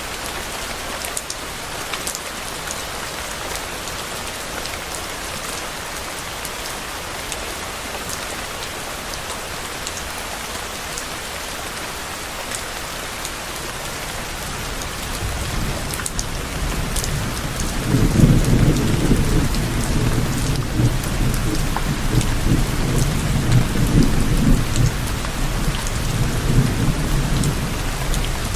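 Steady rain falling with scattered louder drops; about halfway through, a low rolling thunder rumble builds and keeps rumbling, loudest from about 18 s on.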